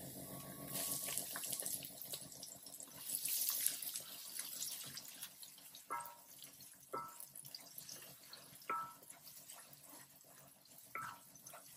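Garlic and sliced onion sizzling in oil in a stainless steel wok, the sizzle swelling as the onion goes in and then settling. Later, a wooden spatula knocks against the pan about five times while stirring.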